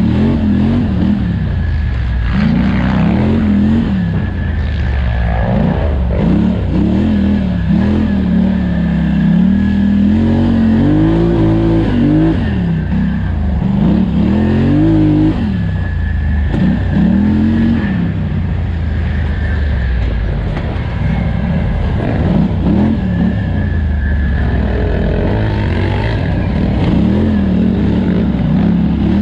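Polaris Scrambler XP 1000 ATV's twin-cylinder engine revving up and falling off over and over under hard throttle, over a steady low rumble.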